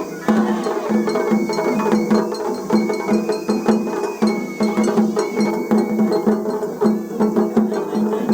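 Japanese festival hayashi band playing: a bamboo flute holds high notes over a fast, steady patter of struck bell-gong and drum beats.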